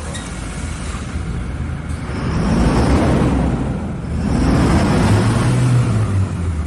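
A motor vehicle's engine running and revving up and back down twice.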